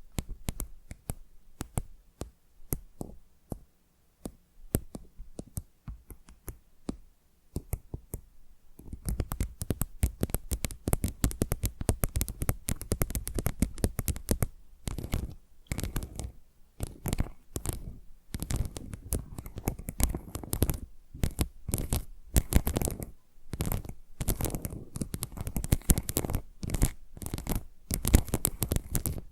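Fingernails tapping and scratching on a tile, close to the microphone. Sparse, light clicks at first; about nine seconds in it turns into a dense, fast, louder run of crackly scratching and tapping.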